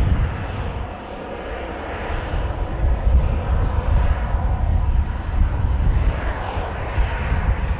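Airliner jet engines running at takeoff power as the plane rolls down the runway and departs: a steady, broad engine noise. Gusts of wind rumble on the microphone.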